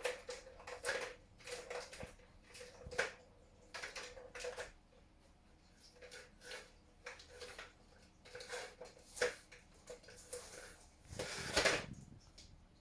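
Kittens moving about: irregular light taps, scratches and rustles, with a longer, louder rustle near the end, over a faint steady hum.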